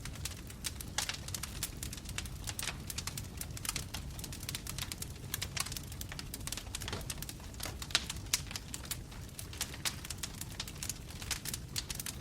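Wood fire burning in a fireplace: logs crackling and popping in quick irregular clicks over a low steady rumble of the flames.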